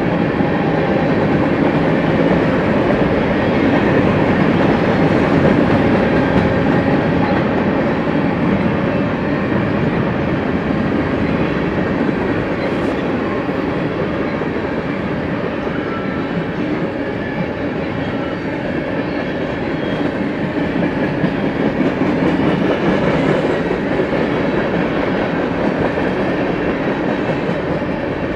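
BNSF freight train rolling past, a steady noise of steel wheels on rails as its cars go by.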